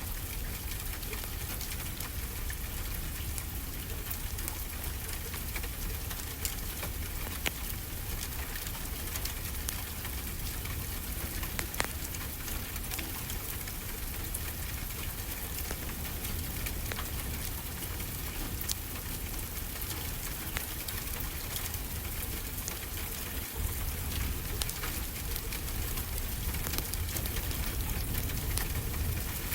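Fireplace crackling, with scattered sharp pops, over the steady low rumble of ocean waves rolling onto the shore.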